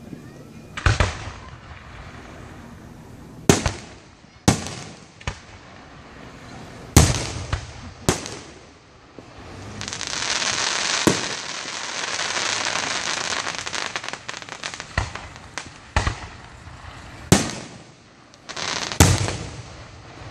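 Fireworks bursting: about ten sharp bangs at irregular intervals, with several seconds of dense crackling hiss in the middle.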